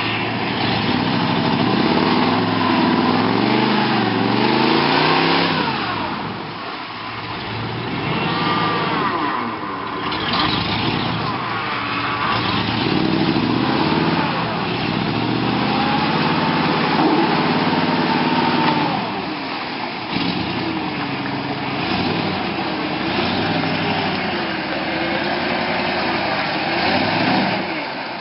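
Ford 302 (5.0 L) V8 of a 1988 F-150 4x4 mud truck running under load, its engine speed rising and falling in repeated swells.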